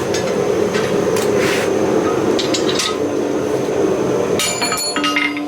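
Hammer blows on steel, a few irregular strikes over a steady roar. Music comes in near the end.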